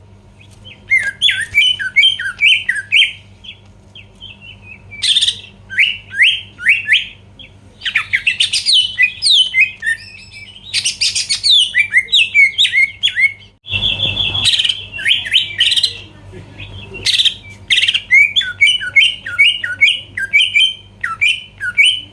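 Greater green leafbird (cucak ijo) singing in rapid bursts of quick, falling whistled notes broken by short pauses, with some harsher, scratchier notes mixed in.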